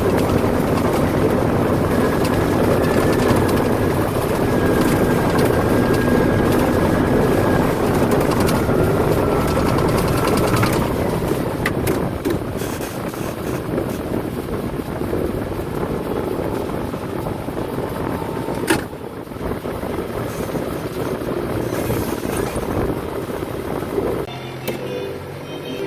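Heavy machinery engine running steadily, louder for the first ten seconds or so, with a sharp click a little past halfway. Music comes in near the end.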